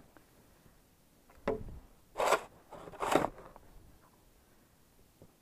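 Fresh snow crunching and scraping twice, about two seconds in and again a second later, after a softer thump.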